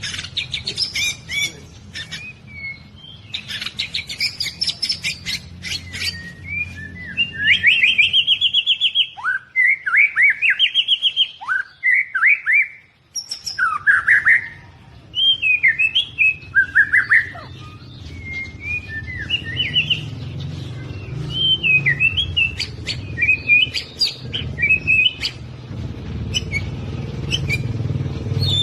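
White-rumped shama singing a long, varied song: rapid clicking chatter first, then loud sweeping whistled phrases, then quicker mixed warbled phrases. A low steady hum runs underneath, louder near the end.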